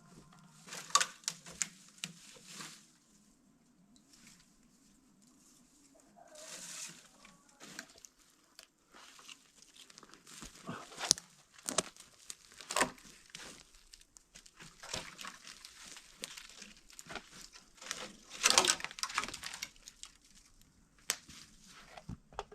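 Branches and twigs being handled and snapped: irregular sharp cracks amid rustling, with the loudest cluster about three-quarters of the way through.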